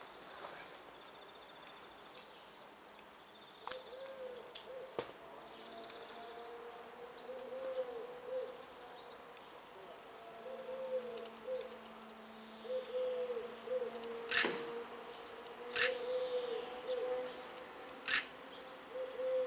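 A passenger train hauled by an EP07 electric locomotive approaches slowly. There is a steady, wavering tone from the train and a few sharp clicks as the wheels cross rail joints or points. The clicks come twice early on and three times in the second half, and the loudest falls about three quarters of the way through.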